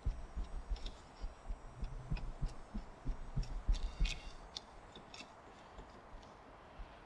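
Chisel paring a tight spot in a timber mortise: irregular soft low thuds with light clicks and scrapes, dying down after about four and a half seconds.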